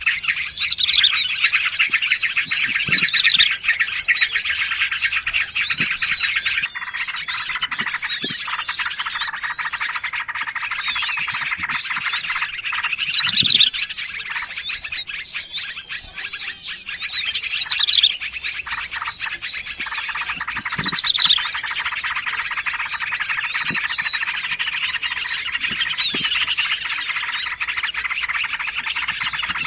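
Dense chorus of many small songbirds chirping and trilling over one another without a break, a mixed bird-lure recording of forest birds such as bulbuls and prinias. The mix changes abruptly about seven seconds in.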